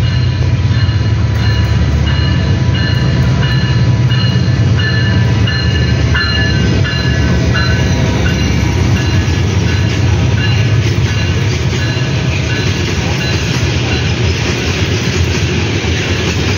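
Bangladesh Railway diesel-electric locomotive hauling a freight train of covered wagons past at close range: a loud, steady low engine drone, then, in the last third, the rumble and clatter of the wagons rolling by.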